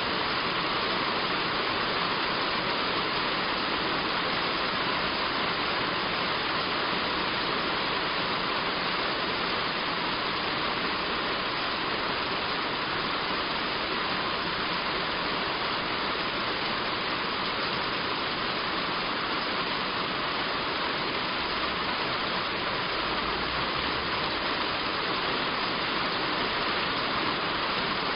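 Heavy rain drumming on a roof: a steady, dense hiss that does not change.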